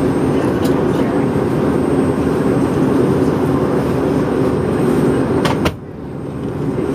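Steady rushing cabin noise inside a parked McDonnell Douglas MD-88, the cabin air supply running before engine start. About 5.7 s in there is a click and the noise drops sharply, then climbs back over about a second.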